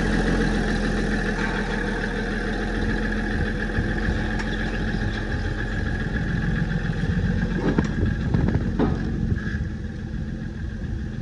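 Squarebody pickup's engine running steadily as the truck is moved on front-wheel drive alone, its rear differential carrier broken.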